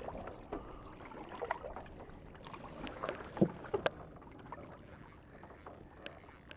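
Kaskazi Dorado 2 kayak being paddled: water sloshing and dripping, with scattered knocks, the loudest two about three and a half seconds in.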